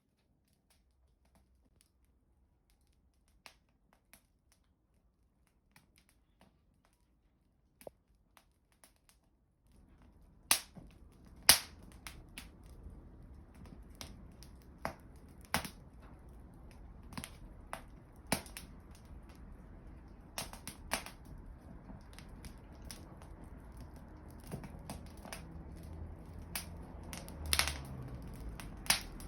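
Wood fire crackling and popping: a few faint pops at first. About ten seconds in, a steady low rush of flame sets in, with frequent sharp, loud pops and snaps over it.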